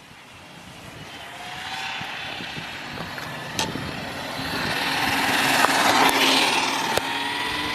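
Electric RC car run at full throttle on a top-speed pass: a rising motor whine over tyre noise, growing louder as it comes closer and loudest about six seconds in. A couple of sharp ticks are heard along the way.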